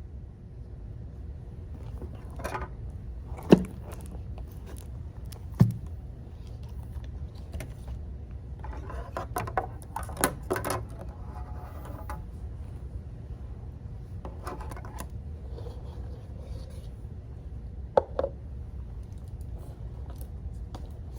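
A few sharp knocks and a brief patch of clicking and rustling from objects handled at a desk, over a steady low rumble of room noise.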